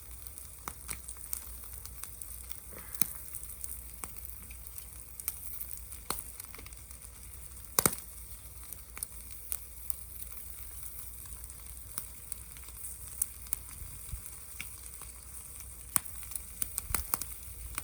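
Food sizzling in a pan over a wood gas stove fire, a steady hiss broken by scattered sharp pops and crackles, the loudest pop about eight seconds in.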